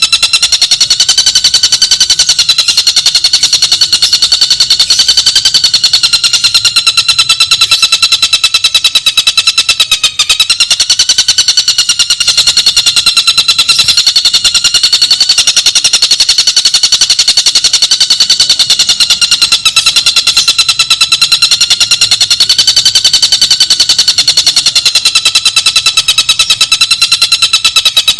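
Tengkek buto bird calling in one continuous, very fast rattling trill, its notes repeated evenly at a steady pitch with only a slight wavering.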